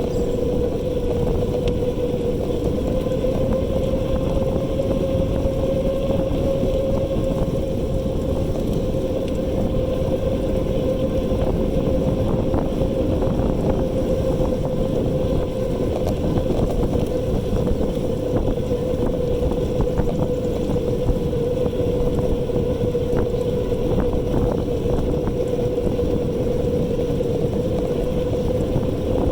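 An e-bike's electric drive motor whines at one steady pitch while riding, over a low rumble of wind on the microphone.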